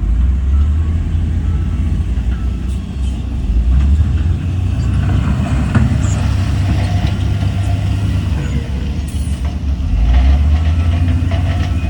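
Diesel engine of heavy earthmoving equipment running with a loud, low rumble that swells and eases a few times.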